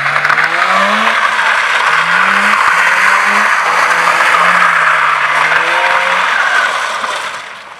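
Mazda RX-8's rotary engine revving up and down while the tyres squeal in one long continuous skid as the car is swung around. It fades away near the end.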